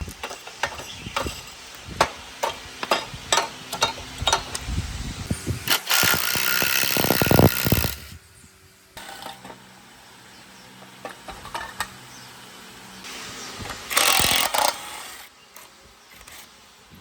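Workshop tool work: a run of sharp metallic taps and clicks, then a power tool running for about two seconds, and a shorter burst from it near the end.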